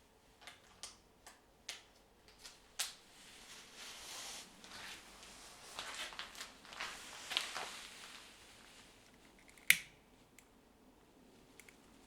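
Fire being lit in a fireplace: small clicks and crackles, then a few seconds of hissing and crackling in the middle, and one sharp loud click near the end.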